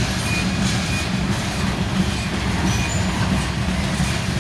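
Freight cars (boxcars, a tank car and centerbeam flatcars) rolling past, with a steady low rumble of steel wheels on rail. Brief faint high squeaks recur about every half second.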